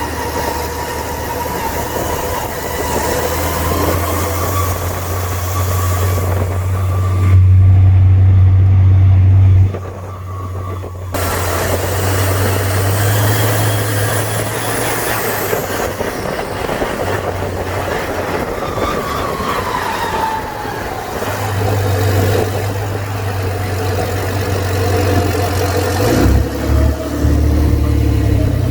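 Truck engine running, its pitch rising and falling with the throttle, louder for a couple of seconds about eight seconds in.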